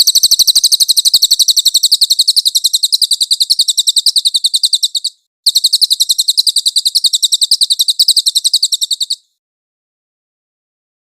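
A songbird's rapid, high-pitched trill of quickly repeated notes, in two long runs split by a brief break about five seconds in; it stops about nine seconds in.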